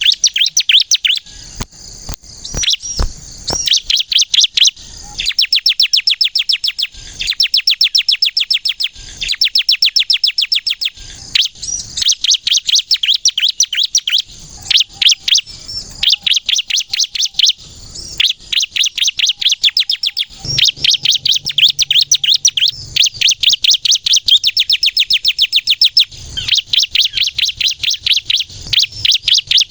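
Bar-winged prinia (ciblek kristal) singing loudly and continuously in fast, high, rattling trills: phrases of rapidly repeated notes one to two seconds long, with brief pauses between them.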